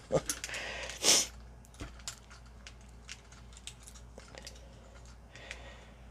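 Plastic parts of a Transformers action figure clicking and rattling as they are handled and pushed into place during transformation, with a brief louder scrape about a second in and scattered light clicks after.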